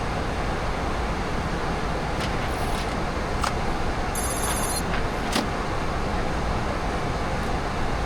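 Steady rushing flight-deck noise of a Boeing 737-800 on approach. A few faint clicks and, about four seconds in, a brief run of rapid high-pitched ticks.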